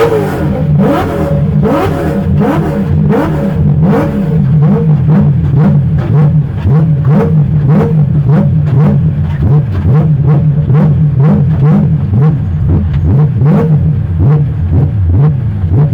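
BMW 1 Series with a swapped-in M3 V8 engine being driven hard, its revs rising and falling in quick repeated surges, heard from inside the car. Sharp cracks sound over the engine in the first few seconds.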